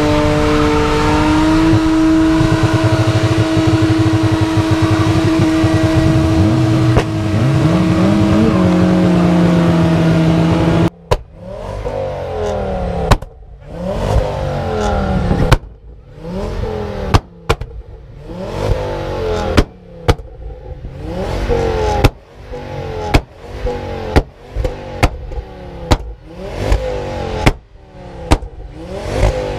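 Car engine held at steady high revs for about ten seconds, then dropped and blipped repeatedly. Each rev rise falls away with sharp pops and bangs from the exhaust.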